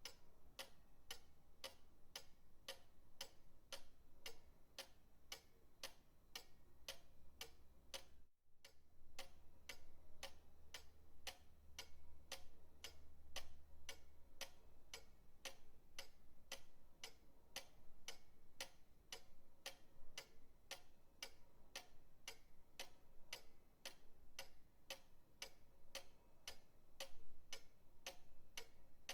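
Pendulum clock ticking in a quick, even rhythm, with a brief break in the ticks about eight seconds in.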